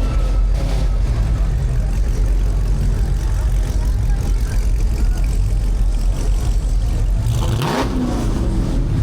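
Car engines running and revving, with steady engine and road noise. About three-quarters of the way through, one car passes close and loud, its engine pitch sweeping as it goes by.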